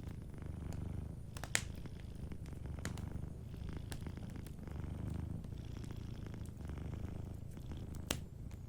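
Domestic cat purring steadily close up, the purr swelling and easing in slow waves with its breathing. Wood fire crackling lightly over it, with a sharp pop about one and a half seconds in and another near the end.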